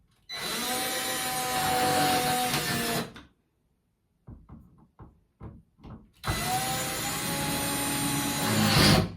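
Power drill driving screws clockwise to tighten a tub drain fitting back down. It runs twice with a steady whine, each run about three seconds long, with a few small clicks of handling between; the second run grows louder just before it stops.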